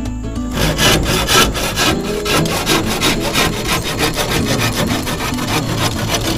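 Hand saw cutting through wood in quick, even back-and-forth strokes, about four or five a second.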